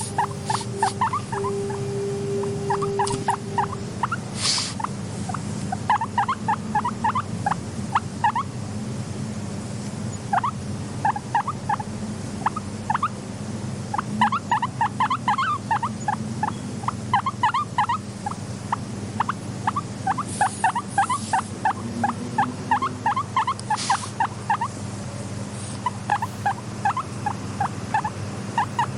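Guinea pig squeaking in quick runs of short, rising notes, starting and stopping in clusters, over a steady low hum.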